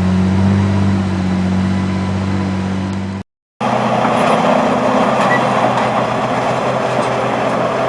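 A heavy vehicle's engine runs steadily. It cuts off abruptly about three seconds in, and a different, noisier engine sound takes over after a brief silence.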